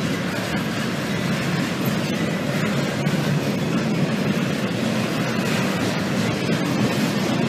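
Double-stack intermodal freight train rolling past: a steady, unbroken noise of steel wheels on rail as the container well cars go by.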